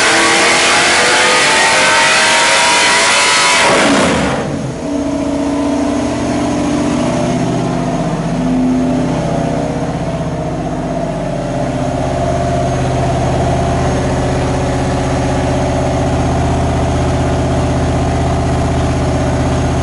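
Ford 347 cubic-inch small-block V8 with Inglese stack electronic fuel injection running at high rpm on an engine dyno. About four seconds in, the throttle closes and the revs fall quickly, and it settles into a steady idle.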